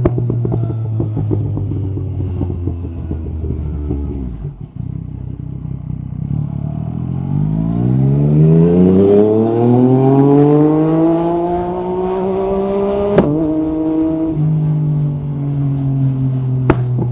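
Yamaha MT-09 SP's three-cylinder engine through an Akrapovic carbon exhaust, running steadily, easing off briefly, then climbing smoothly in revs for about six seconds. A sharp click comes as the revs fall back, and the engine then runs steadily at lower revs.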